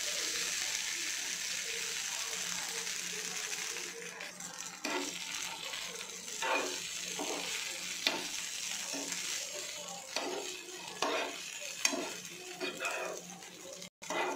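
Idli pieces sizzling as they drop into hot spiced oil on a nonstick pan, then a spatula knocking and scraping on the pan as the pieces are stirred and turned while they keep frying.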